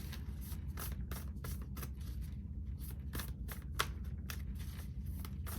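Tarot cards being shuffled by hand: a run of quick, soft card snaps and slides, about three a second, over a steady low room hum.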